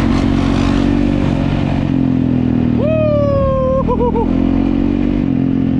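Dirt bike engine running hard at steady high revs. A person's loud whoop rises over it about three seconds in.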